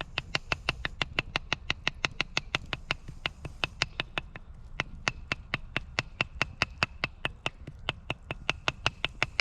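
Rapid, even tapping, about five strikes a second, each strike with a short high ring.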